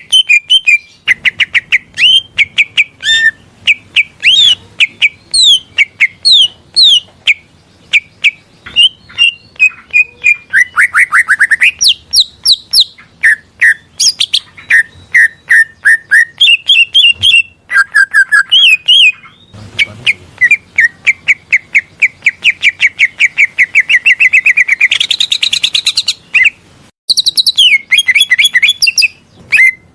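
Green leafbird (cucak ijo) singing a rapid, varied stream of chirps and whistled notes, broken by a few short pauses. In the second half it sings a long trill of fast repeated notes that jumps higher in pitch near its end.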